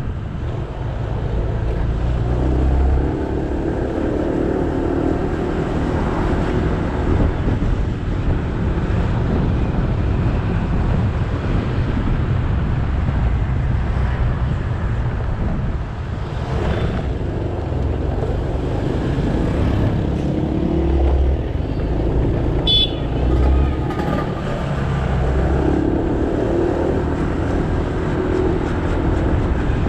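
Motorbike engine running under way with steady road and wind noise, the engine note strengthening and fading several times. A vehicle horn sounds briefly a little over 20 seconds in.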